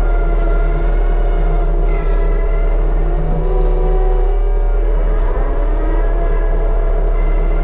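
A mini excavator running a hydraulic Rut brush cutter head: steady engine noise with a layered whine whose pitch drifts up and down as the cutter works through grass and brush.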